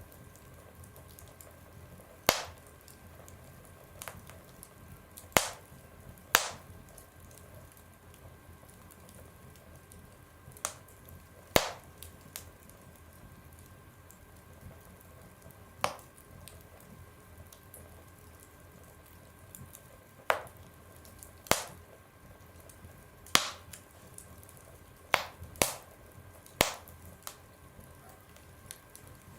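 Wood fire burning in a stove, crackling: sharp, irregular pops every one to three seconds over a low steady hiss.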